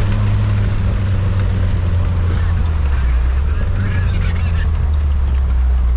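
Isuzu Trooper 4x4's engine running steadily while driving, a loud low drone whose pitch drops slightly about two to three seconds in. Faint high squeaky calls come over it midway.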